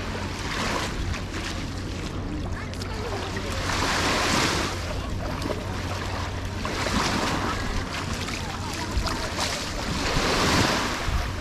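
Small sea waves breaking and washing up the sand, the wash swelling and fading about every three seconds, over a low wind rumble on the microphone.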